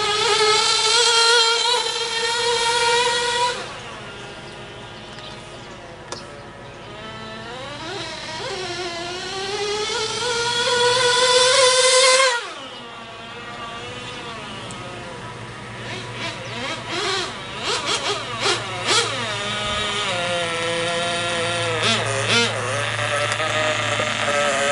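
Small nitro two-stroke glow engine (GO 0.98cc) of a 1/16-scale RC buggy revving high. It runs in two long, rising runs that cut off sharply, about 3.5 s and 12 s in, then is blipped in short quick bursts through the last several seconds.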